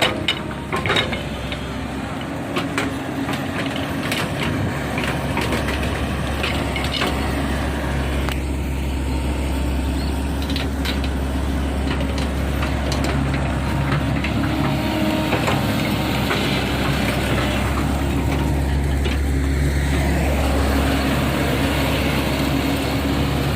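Sany SY140-C9 excavator's diesel engine running steadily under load while digging. Sharp knocks, cracks and crunches come mostly in the first half, as the bucket scrapes and breaks soil and stones.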